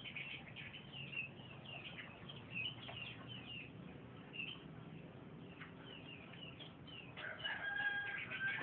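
Domestic canary singing: a run of quick high chirps and short sliding notes, becoming fuller about seven seconds in with a held whistled note.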